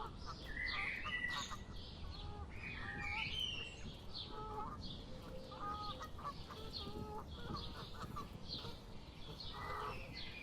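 Several birds calling: short high chirps repeating about once or twice a second, over lower honk-like calls and a few rising high calls in the first few seconds.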